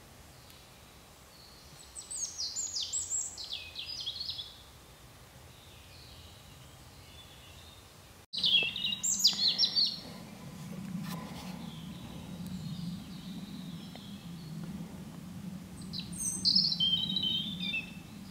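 A songbird singing three short phrases of quick, falling high notes, several seconds apart.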